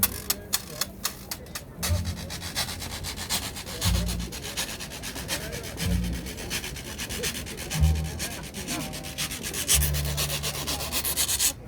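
Scratchy rubbing noise directly on a phone's microphone, with dull low thumps roughly every two seconds.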